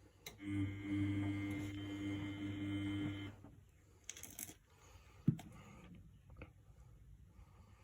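Miele Novotronic W828 washing machine turning its drum in the wash: a relay click, then the drum motor runs steadily for about three seconds and stops. A pause follows with a short swish and a single thump from the tumbling load.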